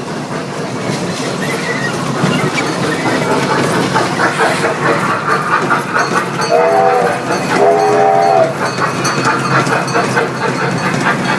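Small carnival ride train running, with a steady rattling clatter of its cars and wheels, and two short toots of its whistle about two-thirds of the way through.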